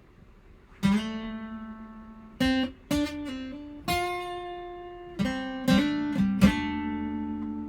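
Acoustic guitar playing a slow, sparse intro: about eight chords, each strummed once and left to ring.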